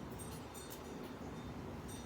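Wood fire crackling in a fire pit: a few short, sharp ticks over a low steady rumble.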